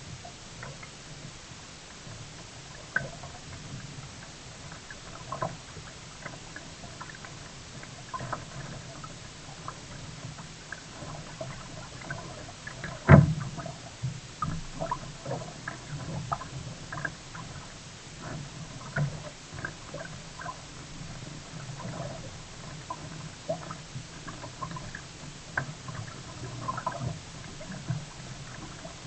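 Kayak paddling on the sea: water splashing and gurgling in short irregular bursts as the paddle works, over a steady low rumble, with one loud knock about halfway through.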